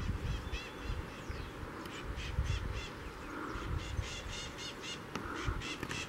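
A bird calling in runs of short, high, arched notes, about four a second, with a low rumble underneath.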